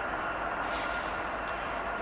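Steady vehicle noise from heavy machinery or traffic: an even rumble and hiss with a faint, constant high-pitched whine over it.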